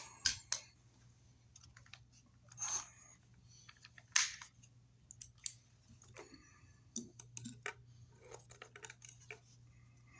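Irregular clicks, taps and short scrapes of small hardware being handled while a plastic electrical box is fitted and screwed in.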